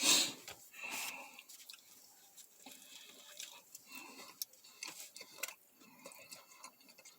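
Someone chewing a sub sandwich: soft, irregular wet mouth clicks and smacks, after a short burst of noise right at the start.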